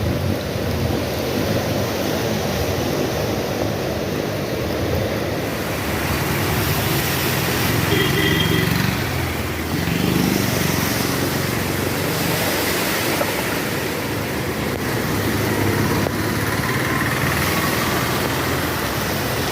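Steady road traffic noise on a rainy city street, a continuous rushing hiss with vehicle sound underneath.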